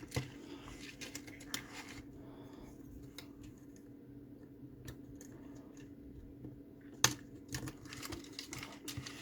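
Small clicks and taps of tweezers working a plastic retaining clip on a car fuse box, with one sharp click about seven seconds in as a tab lets go. A faint steady hum runs underneath.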